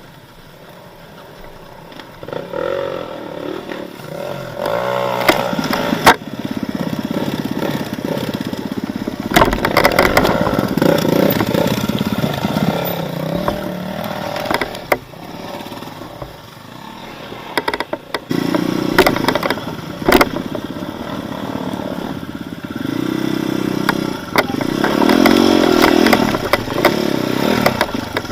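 Off-road motorcycle engine revving up and down as it is ridden over rough ground, with several sharp knocks and clatter from the bike. The engine is quieter for the first couple of seconds and eases off briefly about halfway through.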